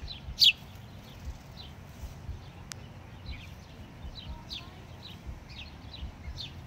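Small songbirds chirping: a series of short, down-slurred high chirps, a loud one about half a second in and fainter ones following every half second or so, over a low outdoor rumble.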